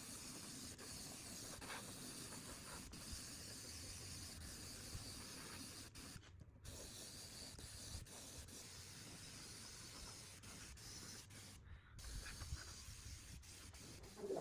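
Faint, steady hissing noise, broken by two brief drop-outs about six and twelve seconds in.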